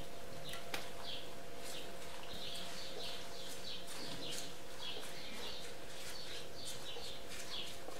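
A small bird chirping over and over, short high notes at about two or three a second, over a faint steady hum.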